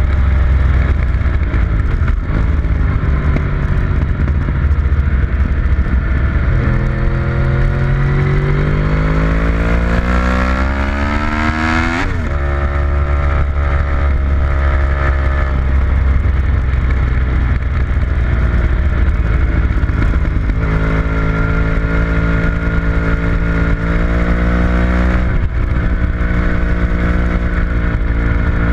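A vehicle engine heard on board at speed under a heavy steady wind rumble. The revs climb steadily for about five seconds and drop sharply at an upshift near the middle, then hold fairly even, with two brief dips later on.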